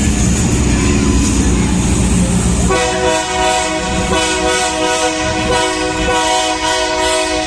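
Diesel locomotive engine rumbling low, then about three seconds in the Wabtec AC44i locomotive's air horn sounds one long, steady multi-note blast that stops near the end.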